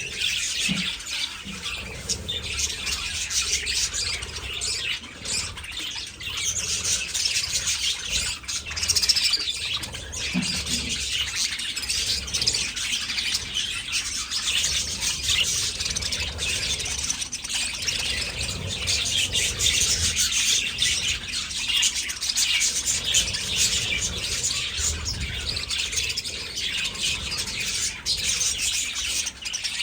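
A flock of budgerigars chattering continuously, many overlapping quick chirps and squawks.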